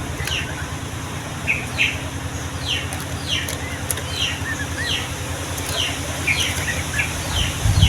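Yellow-vented bulbul singing: a run of short, quick down-slurred whistled notes, about two a second, over a steady low rumble.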